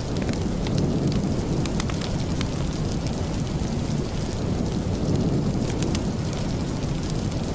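Steady rain: a dense, even wash with a deep low rumble, with scattered sharp ticks throughout.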